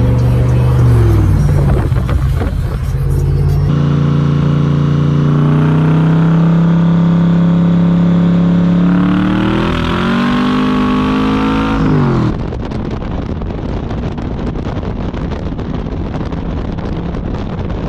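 Cobra roadster's carbureted V8 under hard acceleration, heard from the open cockpit. The revs fall away near the start, then climb steadily and rise sharply before dropping off about twelve seconds in as the throttle is lifted, leaving a quieter engine run with wind noise.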